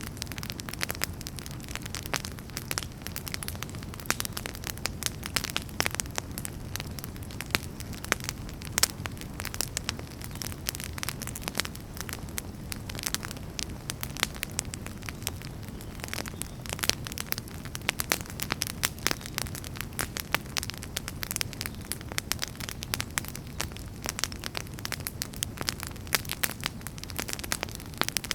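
Wood fire in a fireplace crackling steadily, with a constant low rumble of flames under many sharp, irregular pops and snaps.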